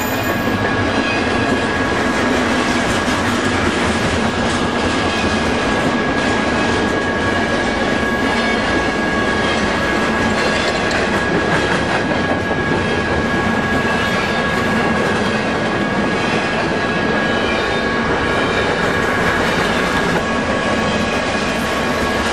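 Freight train cars rolling steadily past close by, wheels clattering over the rails, with a steady high-pitched ringing tone running throughout.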